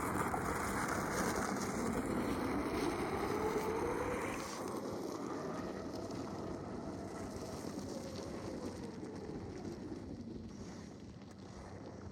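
A vehicle engine revving, its pitch climbing over the first few seconds and then slowly easing back down, with a hiss that falls away about four seconds in.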